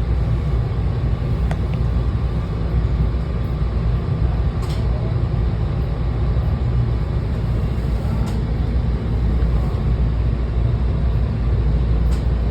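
Washington Metro railcar standing at a station platform: a steady low rumble from its running equipment, with a few faint clicks.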